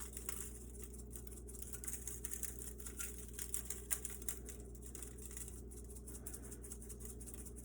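Dried Italian seasoning being sprinkled over a roasted bird: light, irregular patter and small ticks, with a few louder clicks about three to four seconds in, over a steady low hum.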